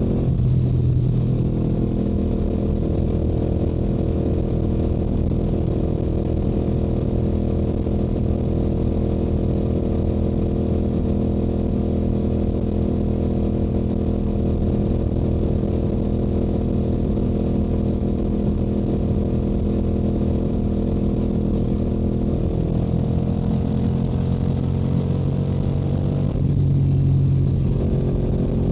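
Stock exhaust of a Yamaha YZF-R7's parallel-twin engine under steady highway cruising. About 23 seconds in the engine note climbs, then breaks off abruptly near 26 seconds and comes back louder.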